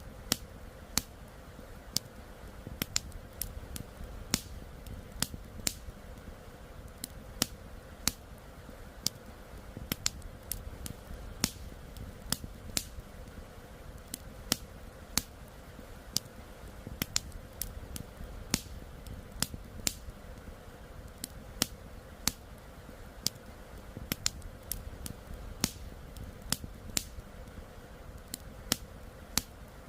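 Wood campfire crackling, with irregular sharp pops several times a second over a steady low rushing background.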